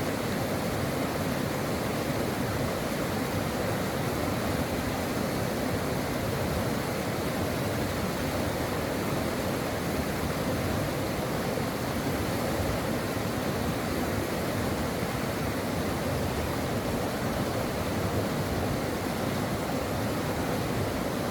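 Brook water rushing steadily and evenly, with no pauses or changes.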